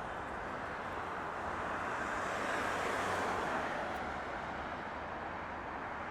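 Jet airliner engine noise, a distant rushing roar that swells to a peak about three seconds in and then eases off.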